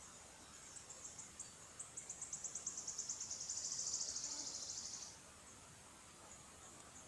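A songbird singing one phrase of high, quick notes that speed up into a fast trill, which stops sharply about five seconds in.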